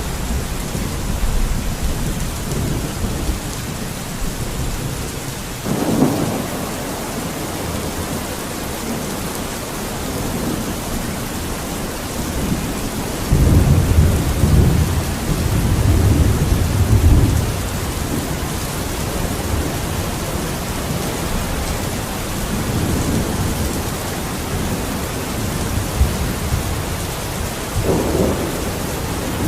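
Steady rain falling with a constant hiss. Deep low rumbling swells rise and fall through the middle, with shorter surges earlier and near the end.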